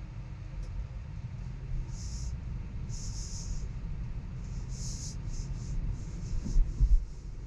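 Steady low road and tyre rumble inside a moving Tesla's cabin, with no engine note. A few brief high hisses come and go, and there are a couple of low thumps near the end.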